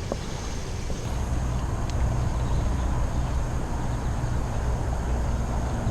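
Jet boat engine running steadily: a low, even hum that grows a little about a second in and then holds.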